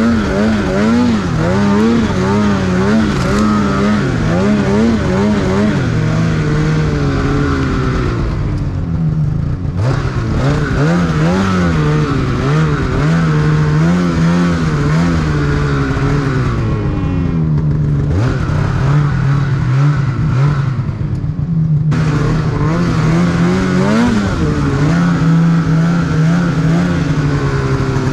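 Snowmobile engine under way, its pitch rising and falling again and again as the throttle is worked. It eases off twice, at about eight seconds and again from about seventeen to twenty-two seconds, before pulling back up.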